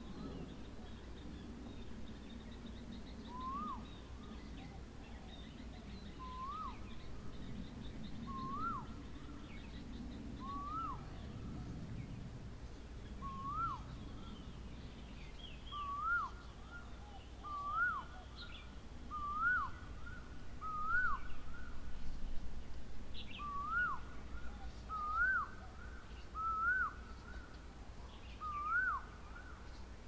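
Asian koel calling a repeated short rising 'ko-el', about one call every one and a half to two seconds, the calls coming faster and louder in the second half. Faint high chirps of other small birds sound behind it.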